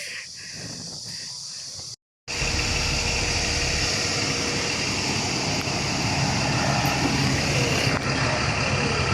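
A vehicle engine running steadily, starting after an abrupt cut about two seconds in.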